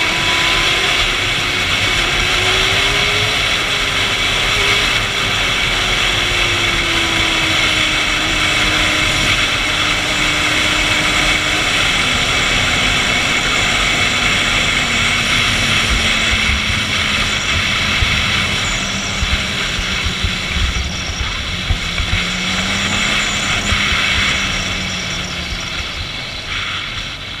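Honda CBR600RR inline-four engine running at speed under heavy wind rush, its pitch falling slowly and steadily. Short low buffets come in the second half.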